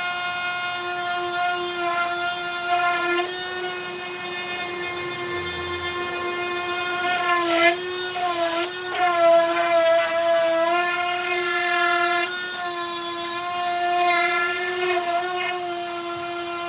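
Electric power sander running on wood, a steady motor whine whose pitch wavers and dips a few times, most noticeably around the middle.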